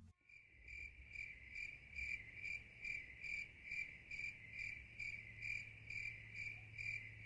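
Crickets chirping faintly in an even rhythm, about two and a half chirps a second, starting just after the speech stops.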